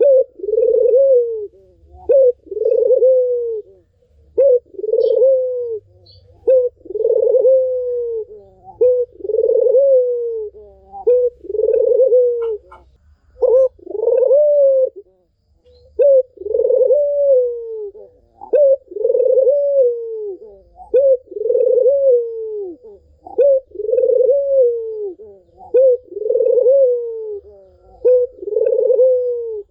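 A puter, the domestic ringneck or Barbary dove, cooing steadily in full song. It gives a long run of coos, each about a second long and often opened by a short note, about one every second and a half.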